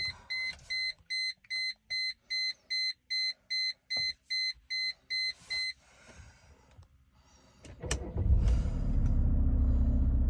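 Mercedes-Benz E300 dashboard warning chime beeping about fourteen times in quick, even succession, then the engine cranks briefly and catches about eight seconds in and settles into a steady idle, a cold start.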